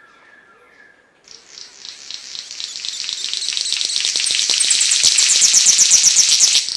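A few faint chirps, then a bird's rapid, high, buzzing trill that grows steadily louder for about five seconds and cuts off abruptly.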